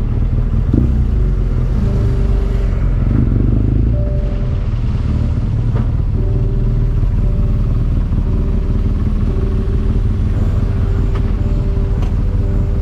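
Motorcycle running, a loud, steady low rumble with a few held tones above it.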